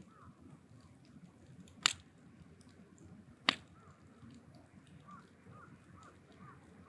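Firewood burning in an oil-drum bonfire cracks sharply twice, about a second and a half apart, over a low steady background. A bird calls in a run of short rising-and-falling notes at the start and again from about the middle on.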